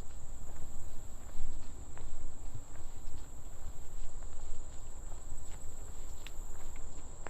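Steady high-pitched drone of insects, with scattered footsteps and a low rumble underneath.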